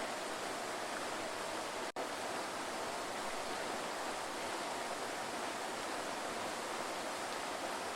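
Waterfall rushing: a steady, even roar of falling water, with a split-second gap in the sound just before two seconds in.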